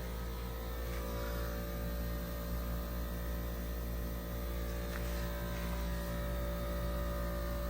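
Steady electric hum of fans running, an even drone made of several steady tones, with a faint tick about five seconds in.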